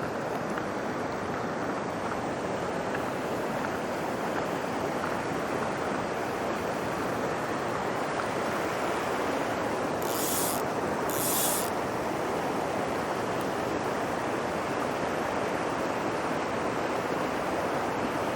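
Steady rush of water from a mountain stream's cascades. About ten seconds in come two brief high hissing scrapes.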